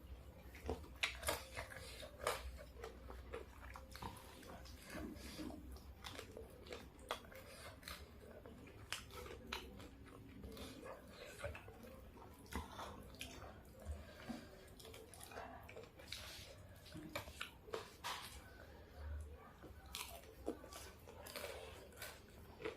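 Close-up biting and chewing of a fried chicken meal with raw basil leaves, with frequent irregular crunches and mouth clicks.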